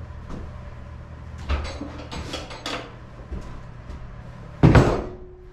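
Knocking and clattering of hard objects being handled, with one loud bang about four and a half seconds in.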